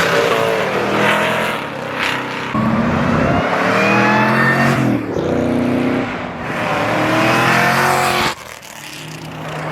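Car engine revving hard and accelerating, its pitch climbing and falling several times in a row, then cutting off abruptly near the end.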